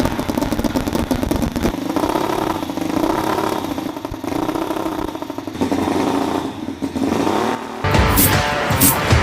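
Small petrol engine running fast and revving up and down several times. Rock music comes in near the end.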